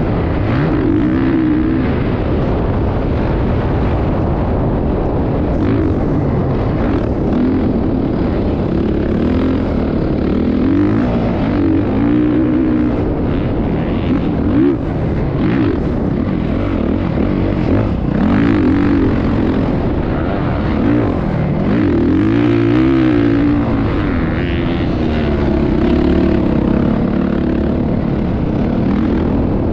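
Motocross bike engines running and revving, their pitch rising and falling over and over as they accelerate and ease off.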